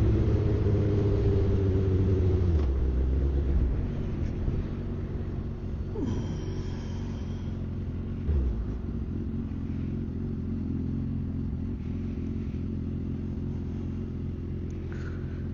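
Suzuki GSX-R1000 inline-four engine running, easing off over the first few seconds and then idling steadily.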